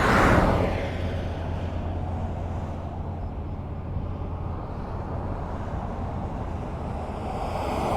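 Highway traffic: a vehicle passes close just at the start, rising and then falling away within about a second. A steady low rumble of traffic follows, and another vehicle approaches, growing louder near the end.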